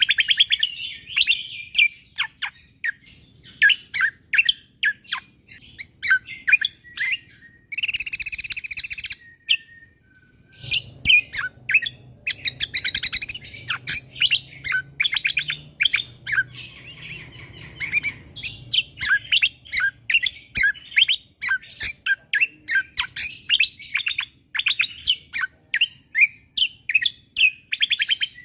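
Cucak kombo (kecial kombo) singing a dense, rapid run of high chirps and whistles. About eight seconds in there is a harsher, buzzier burst, then a brief pause before the rapid chirping resumes.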